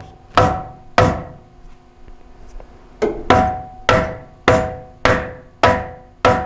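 Nine blows tapping on a steel exhaust pipe of a 1998 Chevrolet 1500 pickup, two about half a second apart, then after a pause seven more at a steady rate of about one and a half a second, each leaving a short metallic ring. The pipe is being driven into the muffler's slip joint but stays put: it is binding.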